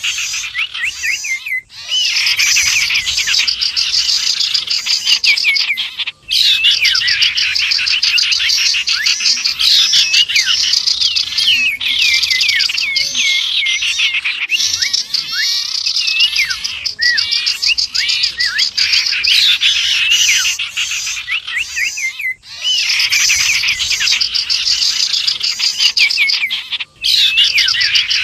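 Dense, unbroken chorus of many small songbirds chirping and trilling over each other: a mixed bird-lure recording built around the common iora (cipow). It cuts out briefly four times, where the looped recording is spliced.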